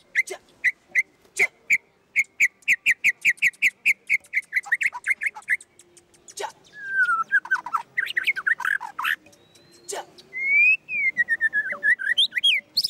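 White-rumped shama singing: a fast run of repeated whistled notes that speeds up, then sliding whistled phrases that fall and rise in pitch, with sharp clicks scattered through.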